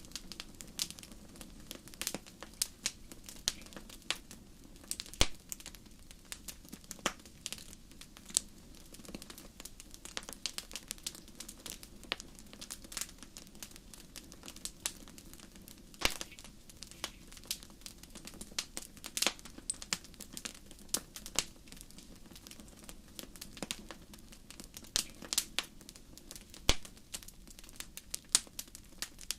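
Wood fire crackling, with irregular sharp pops and snaps over a low steady bed.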